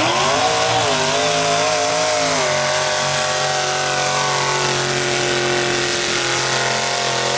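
A mud-racing truck's engine running hard at high revs through a mud pit run, its pitch wavering as the revs are held, dropping a step about two and a half seconds in and then sliding slowly lower near the end.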